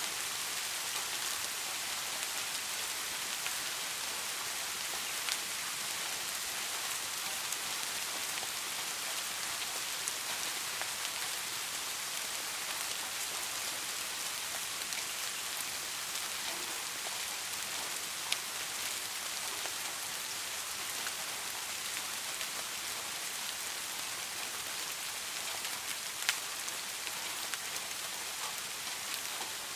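Steady rain falling on a surface, an even hiss with a few sharper individual drop ticks.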